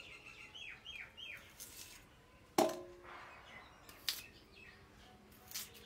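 A bird calling three quick descending chirps about half a second in, then a sharp clink with a brief ring about two and a half seconds in, and a few fainter clicks.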